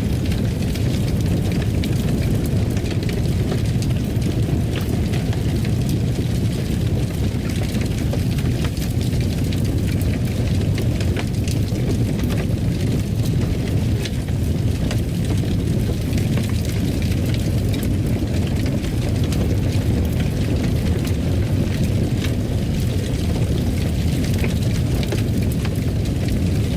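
Fireplace fire burning: a steady low rumble of flame with scattered small crackles and pops.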